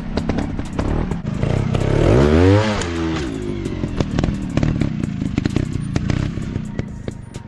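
Dirt bike engine running, revving up and back down about two seconds in, with many sharp clicks and knocks throughout.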